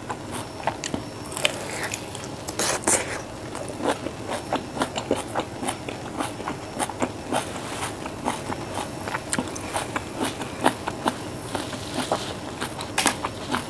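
Close-miked biting and chewing of a small dark red fruit: crisp, juicy crunches and wet mouth clicks, irregular and repeated. There are louder bites about three seconds in and again near the end.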